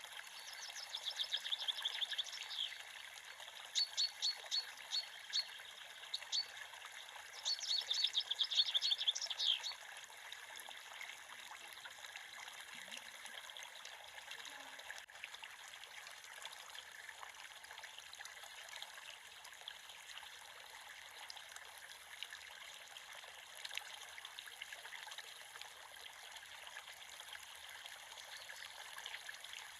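Creek water running steadily over stones. A songbird sings three quick trilled phrases of rapid high notes within the first ten seconds or so.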